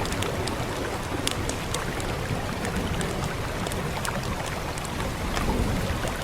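Steady rain hiss with a wood fire crackling through it: small sharp pops scattered irregularly, several a second.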